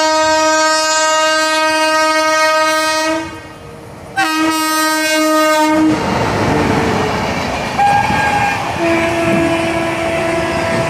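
Train horn sounding two long blasts, the first cutting off about three seconds in and the second following a second later. The rushing rumble of the moving train then takes over.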